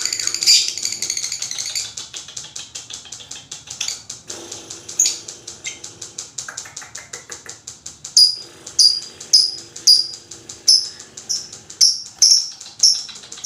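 Lovebirds chattering: a fast, dense high chatter at the start, then rapid clicking chatter, and from about eight seconds in a run of sharp, high chirps about two a second.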